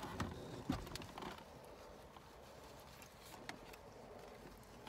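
Soft sounds of a person eating a burger: a few small clicks and rustles in the first second or so, then quieter chewing over a faint steady hiss.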